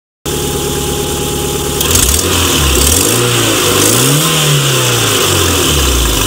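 Toyota MR2 Turbo (SW20) 3S-GTE turbocharged four-cylinder idling steadily, then revved up and down several times, with the biggest rev about four seconds in. No ticking is heard, now that the cracked EGR pipe that caused the exhaust-leak-like tick has been replaced.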